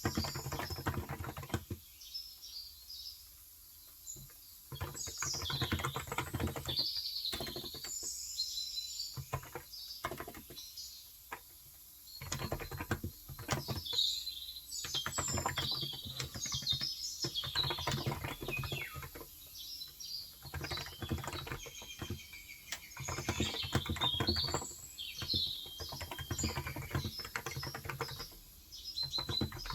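Typing on a Cox Endeavor electro-capacitive (Topre-style) tenkeyless keyboard with 35 g switches, in irregular runs of key presses broken by brief pauses. Small birds chirp repeatedly in the background.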